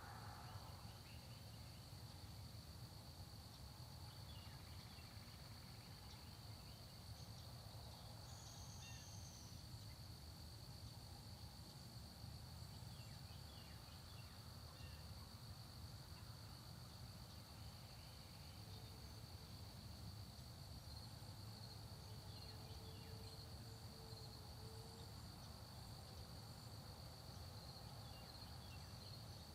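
Faint countryside ambience: insects trill steadily at a high pitch, with faint, scattered short bird chirps.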